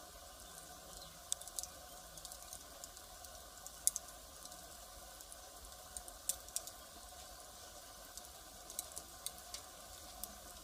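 Firewood fire crackling: irregular sharp snaps and pops of burning wood over a faint steady hiss of the flames, the loudest snap about four seconds in.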